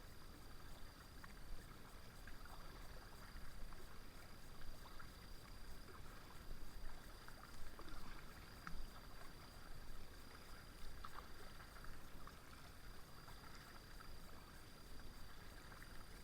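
Faint kayak paddling: the paddle dipping into the river with small irregular splashes and drips, and water lapping at the hull.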